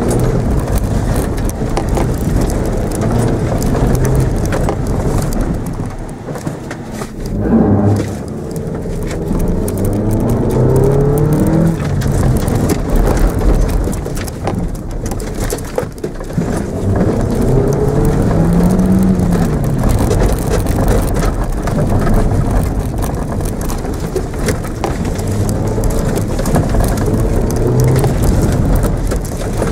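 Mitsubishi Mirage's engine heard from inside the cabin, revving up and falling back again and again as the car is driven hard around cones. There is a short lull about a quarter of the way through before it picks up again.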